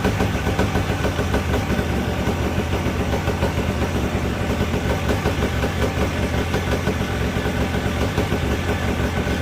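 Vittorazi Moster two-stroke single-cylinder paramotor engine running steadily at an even, fast-pulsing beat, apparently a test run on a freshly fitted iridium spark plug.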